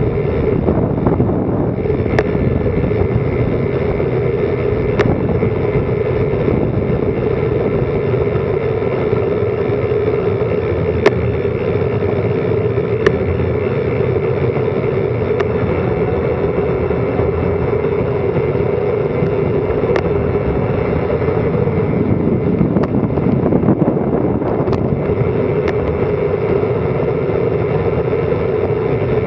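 Steady rushing wind and rolling noise on a Garmin Virb Elite action camera's microphone during a fast downhill bicycle descent, with scattered sharp clicks, two of them louder about halfway through.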